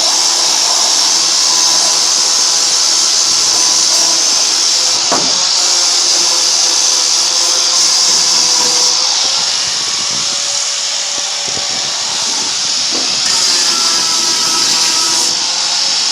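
A handheld power grinder runs steadily, grinding rust off the steel bed of a 1997 Ford Ranger. A steady motor whine sits over a loud hiss of abrasion, with a couple of short knocks, and the grinding eases slightly from about nine to fourteen seconds in.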